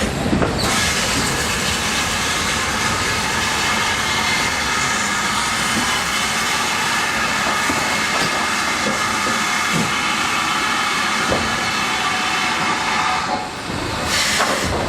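GWR Manor Class steam locomotive letting off steam: a loud, steady hiss that starts about half a second in and stops sharply a little over a second before the end.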